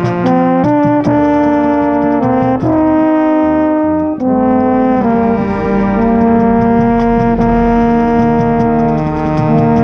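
Marching band brass playing full chords, a marching baritone close by. The chords change several times in quick succession, then one long chord is held from about five seconds in.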